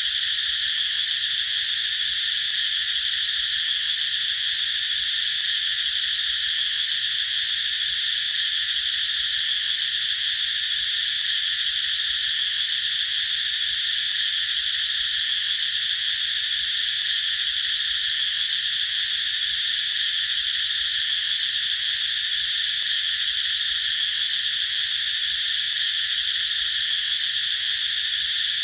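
Cicadas singing: a dense, steady, high-pitched drone that holds without a break.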